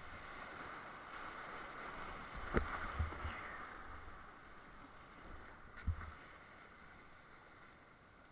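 Creek whitewater rushing steadily, with a few sharp low thumps: two close together about two and a half seconds in, and one near six seconds.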